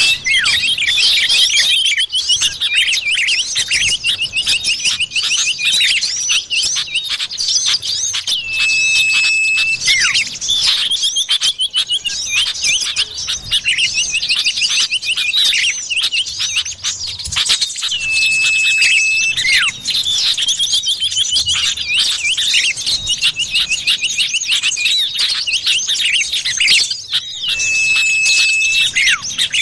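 Bird-lure recording of common iora (cipoh) calls on a loop: dense, rapid high chirping and chattering, with a long steady whistle three times, about every nine seconds.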